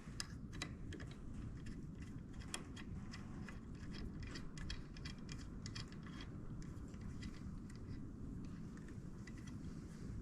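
Light metal clicks, taps and scrapes of a lathe tool bit being pushed and fiddled into a tool holder, the bit only going in partway, over a steady low background hum.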